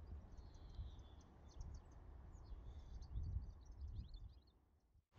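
Faint birds chirping in short scattered calls, over a low rumble.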